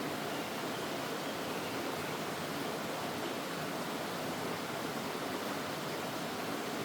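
Mountain stream rushing steadily over rocks, an even water noise.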